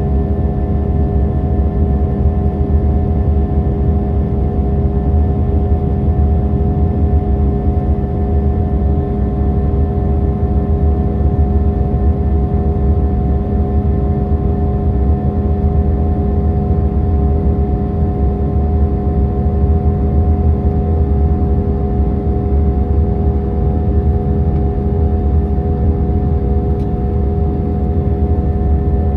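Airbus A319 cabin noise in flight: a steady, loud rush of engine and air noise with a constant hum of several steady tones, unchanging throughout.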